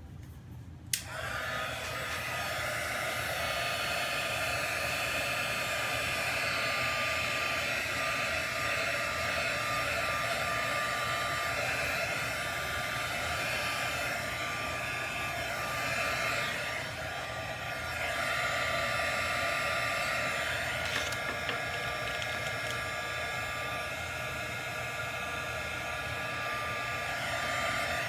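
Handheld heat embossing tool switched on with a click about a second in, then running steadily with a fan whine as it is passed over wet poured acrylic paint to pop air bubbles.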